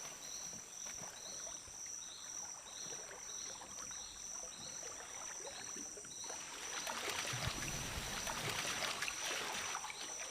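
Rainforest ambience: a steady high insect drone with a chirp repeating about twice a second. From about six seconds in, water sloshes and splashes louder as black caiman move through the lake.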